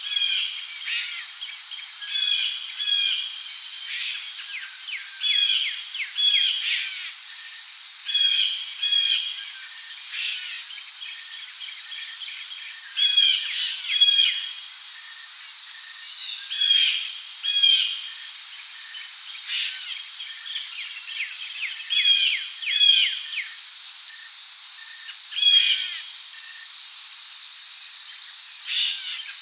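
Rainforest ambience: crickets and other insects keep up a steady high-pitched drone while birds call every second or two, mostly in pairs of short falling notes.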